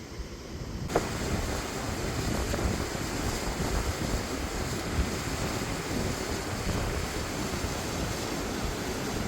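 Whitewater of a mountain creek cascading over rock in a steady rush, coming in suddenly about a second in, with wind buffeting the microphone.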